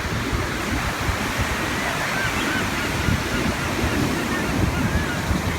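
Ocean surf washing steadily, with wind buffeting the microphone. A few short high calls come in around two seconds in and again near the end.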